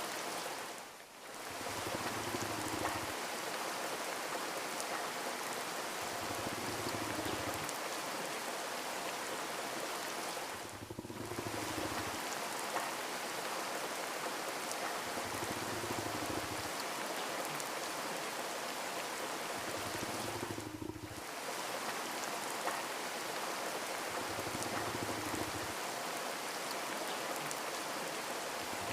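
Steady rain, an even hiss of many drops, briefly dipping three times about ten seconds apart. A faint low sound recurs underneath about every five seconds.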